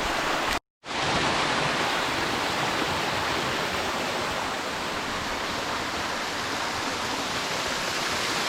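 Steady rushing of a small rainforest waterfall. The sound drops out completely for a moment just under a second in, then comes back unchanged.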